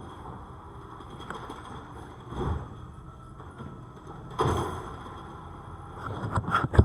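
Garbage truck running with a steady low rumble, broken by a couple of short clanks and a sharp loud bang near the end.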